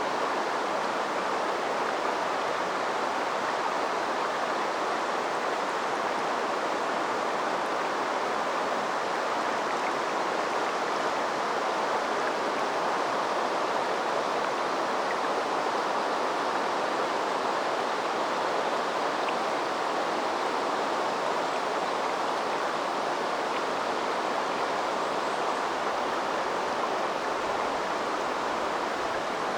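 River water flowing, a steady, even rushing sound with no breaks.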